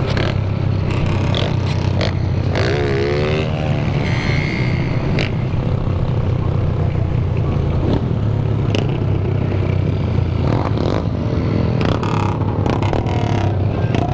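Motorcycle engines running at a crowded meet, a steady loud low drone, with one engine's pitch wavering up and down briefly about three seconds in.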